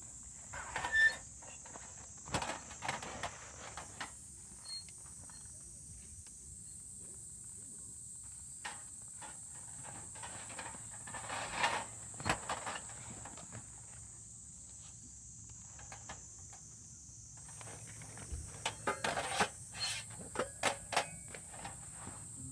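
Scattered clicks and knocks of gear being handled, in small clusters, over a steady high hiss.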